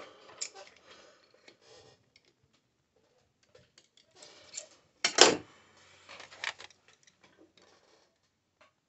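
Scattered light clicks and taps of metalworking tools, with one hard sharp strike about five seconds in and a few smaller knocks around it.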